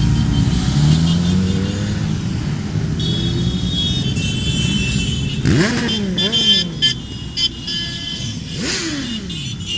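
Motorcycles riding past in a group, a heavy engine rumble at first that eases off, then engines revving in quick rising and falling sweeps twice.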